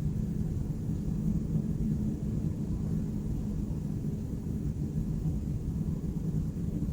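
Steady low rumble of city ambience, a distant traffic hum with no distinct events standing out.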